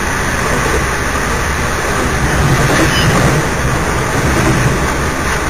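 Rail carriage interior noise: a steady rumble of the wheels on the track while the passenger train runs along, a little louder for a moment around the middle.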